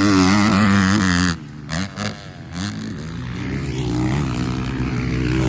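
Dirt bike engine revving up and down close by, cutting off abruptly about a second in. Then more motocross bike engines, fainter, gradually growing louder.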